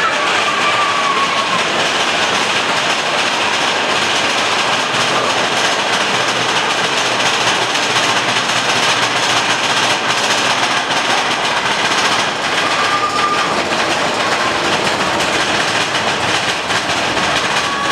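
Mine train running steadily along its track, the cars rattling over the rails. Brief wheel squeals come about a second in and again around thirteen seconds.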